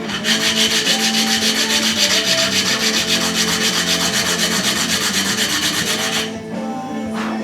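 Guitar nut being sanded to fit its slot, in quick, even back-and-forth strokes that stop about six seconds in.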